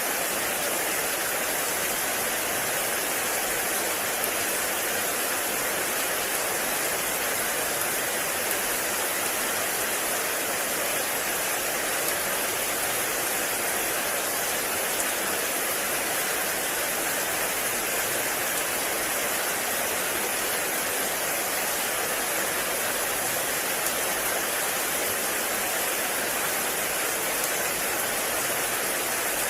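Heavy rain falling steadily in a forest, a dense, even hiss without breaks.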